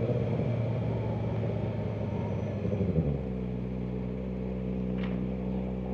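Kawasaki Ninja ZX-4RR's inline-four through a Graves exhaust: the engine note drops away as the throttle closes and the bike coasts with wind and road noise, then settles into a steady idle about three seconds in.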